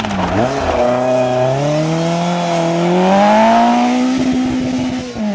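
Historic rally car's engine pulling hard through a gear, pitch climbing steadily for a few seconds and holding, then dropping as the driver lifts near the end.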